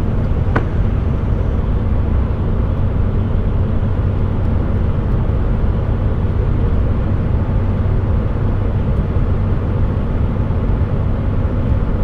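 Inside the cab of a loaded HGV, the diesel engine drones steadily with the engine brake on as the truck slows, over tyre and road noise. There is a faint click about half a second in.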